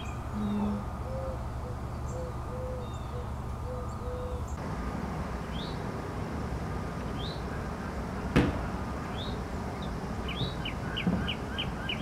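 Birds calling outdoors. In the first few seconds a low short call repeats about six times; after that come high short rising chirps, and near the end a quick run of about six notes. A single sharp knock sounds about two thirds of the way through.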